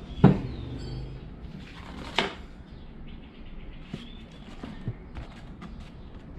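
Two sharp knocks about two seconds apart, the first the loudest, followed by scattered lighter clicks and taps, as of hard workshop items being handled and set down.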